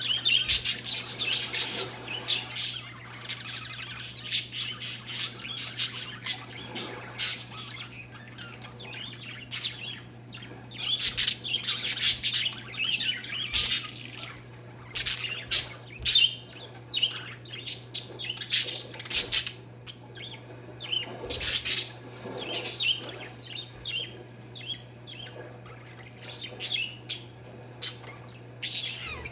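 Pet parakeets and zebra finches chirping together in a dense chatter of short, high calls that come in clusters, over a steady low hum.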